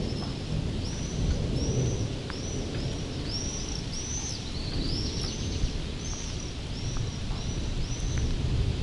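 Steady low rumble of storm noise, with a bird repeating short, high, arched chirps about twice a second over it.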